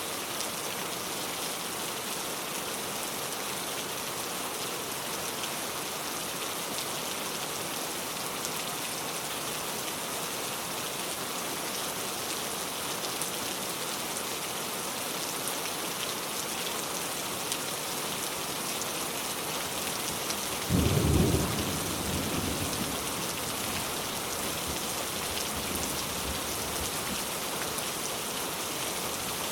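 Steady rain falling as an even hiss. About two-thirds of the way through, a short, low rumble of thunder is the loudest moment and dies away over a couple of seconds.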